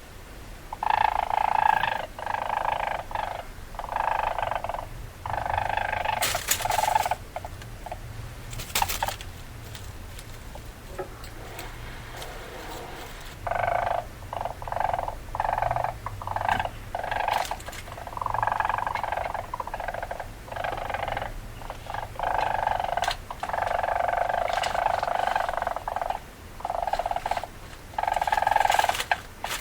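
Weasel calls: repeated bursts of rapid, rough chattering, some brief and some a few seconds long, with short breaks between them and a quieter lull partway through.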